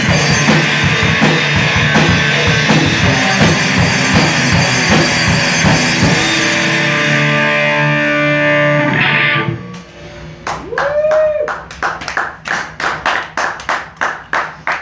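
Rock band playing live with electric guitar and drum kit, ending on a held chord that cuts off about nine and a half seconds in. Then a short whoop and a few people clapping.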